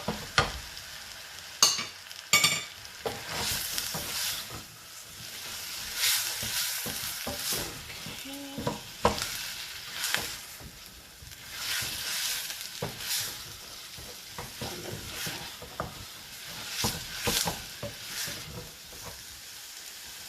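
Onions and mushrooms sizzling in butter and oil in a saucepan, a steady frying hiss, with a utensil scraping and clicking against the pan as they are stirred. There are two sharp knocks about two seconds in.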